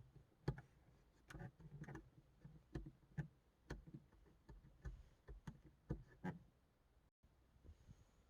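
About a dozen faint, irregular clicks: the buttons of a Subaru Forester's interior clock being pressed over and over to set the time.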